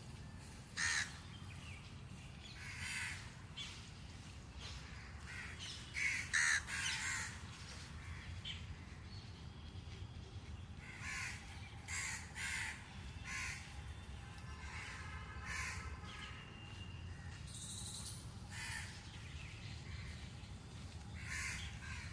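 Crows cawing: short harsh calls in scattered bouts, loudest in a cluster about six seconds in, over a steady low rumble.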